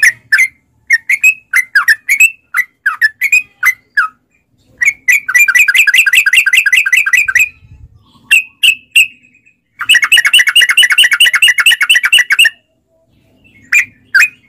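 Trucukan (yellow-vented bulbul) singing loudly: short separate chirping calls, then two long, fast rolling runs of rapid repeated notes, the 'ropel' song, with a few single calls between and after them.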